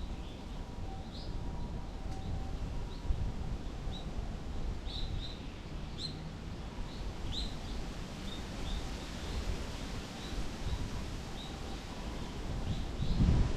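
Small birds chirping with many short, high calls, one after another, over a steady low rumble.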